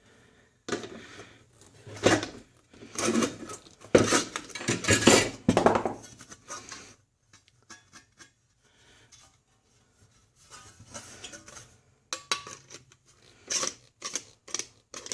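Sheet metal clattering and scraping as it is handled and worked by hand, in irregular bursts: busy for the first several seconds, a few light clicks in the middle, then sharp clanks near the end.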